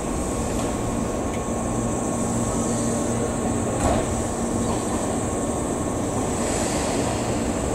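Electric commuter train at a station: a steady rumble with a faint steady hum.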